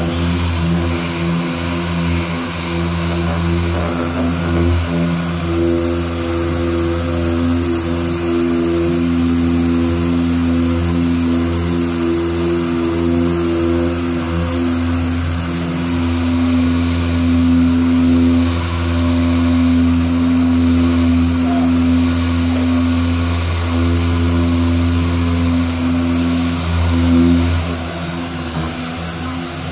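A machine running steadily with a constant multi-tone hum, holding an even pitch throughout, with no speech over it.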